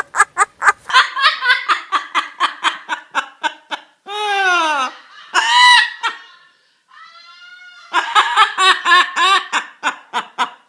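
A pet parrot imitating laughter: a fast run of 'ha-ha-ha' pulses, about four or five a second, broken in the middle by a couple of falling calls, then laughing again.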